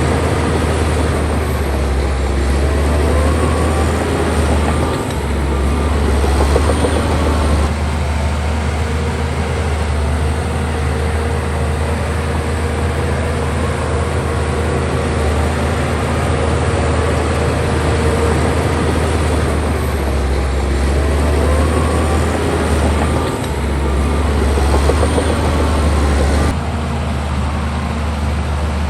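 Shantui bulldozer's heavy diesel engine running steadily under load as it pushes earth, with a couple of brief squeals. The engine's tone changes about eight seconds in and again near the end.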